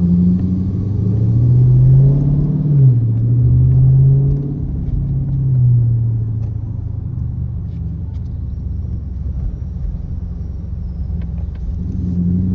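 Straight-piped Dodge Charger R/T's 5.7-litre HEMI V8 pulling away from a green light, the exhaust note climbing in pitch, dropping at an upshift about three seconds in, climbing again and easing off around five seconds in. It then settles into a lower, quieter cruise and starts building again near the end.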